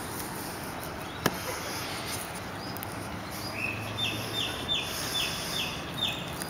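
A sharp click about a second in. A little past halfway a bird chirps a run of about six short, evenly spaced notes.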